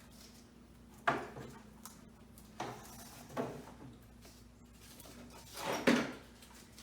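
Painter's tape and plastic trim boards being handled while the boards are taped together: a few short, sharp rasps and knocks, the loudest near the end, over a faint steady hum.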